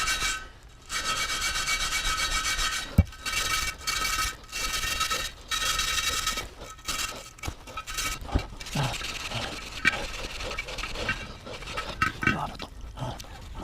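Rust being scrubbed off the rusted rear wheel rim of a Honda Super Cub with an abrasive tool: long back-and-forth rubbing strokes with a ringing tone in each, turning into shorter, choppier scrapes after about seven seconds.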